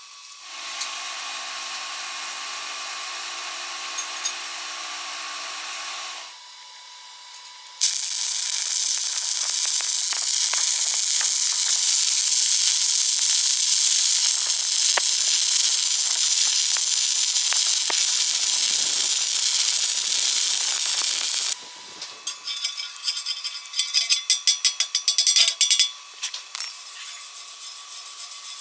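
Electric welding arc crackling and hissing steadily for about fourteen seconds, after a few seconds of a softer hiss with a low hum. Near the end come rapid, uneven scraping strokes.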